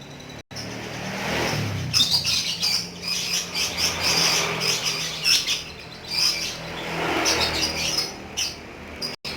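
Lovebird chattering in rapid, high-pitched chirps and squeaks over a faint, steady low hum.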